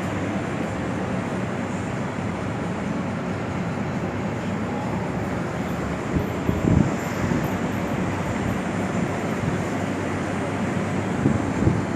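Arge Max 50 cm wall fan running: a steady whir of blades and motor with a low hum. Air gusts onto the microphone about halfway through and again near the end.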